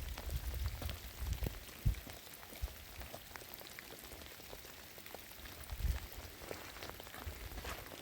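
Rain falling, an even hiss with scattered drops ticking on surfaces. A low rumble sits under the first couple of seconds, and there are a few dull thumps, one about two seconds in and one near six seconds.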